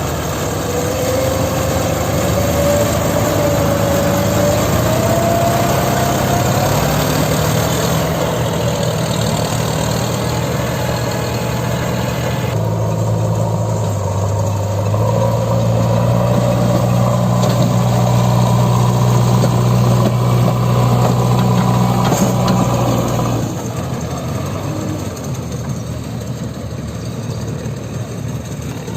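Heavy diesel engine running steadily, with a rising whine over the first several seconds. The sound changes abruptly about twelve seconds in and drops in level about twenty-three seconds in.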